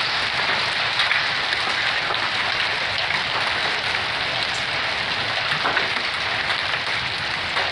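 Pea- and marble-sized hail pelting a roof in a dense, steady clatter, with scattered sharper knocks of single stones.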